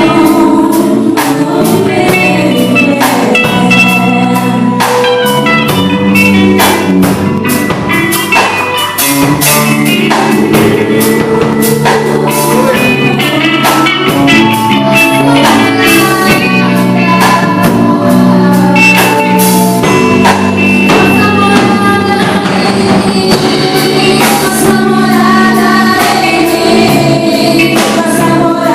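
Gospel worship song sung by two women over drum and guitar accompaniment, with steady drum and cymbal hits throughout.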